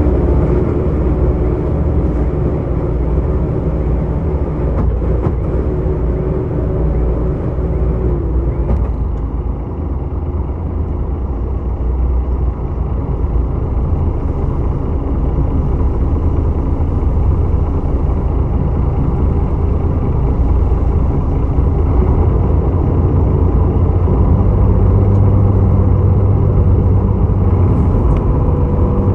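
Boat engine running steadily with a low drone and rumble, with pitched engine tones over it. One tone dips about nine seconds in, and the low drone swells a little near the end.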